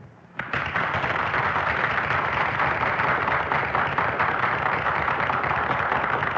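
Audience applauding, a dense steady clapping that breaks out about half a second in after a brass band number ends.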